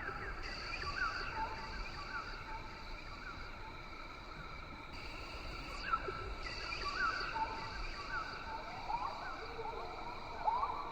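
Rainforest ambience: a steady high insect drone under many short chirping animal calls, which come thicker near the end.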